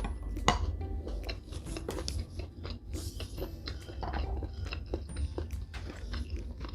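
Close-miked chewing and biting of spicy shrimp tom yum instant noodles and prawns, with many small, irregular crunches and wet clicks.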